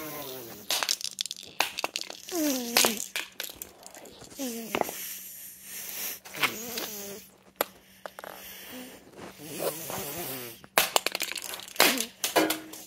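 A sledgehammer striking a plastic toy again and again, sharp irregular blows, with wordless vocal noises between the hits.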